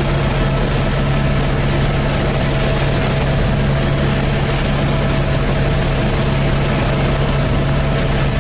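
Helicopter in flight heard from inside the cabin: a loud, steady drone with a strong low hum and a thin, steady higher tone.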